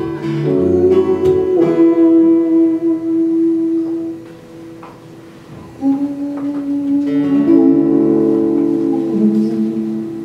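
Acoustic guitar playing the song's closing chords and letting them ring, dropping away for a couple of seconds in the middle, then striking fresh chords that slowly fade out.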